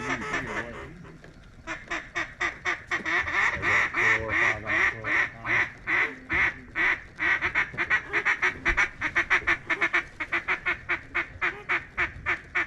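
Hand-blown duck call giving a long, steady run of quacks, about four a second, starting about two seconds in, to bring passing ducks in to the decoys.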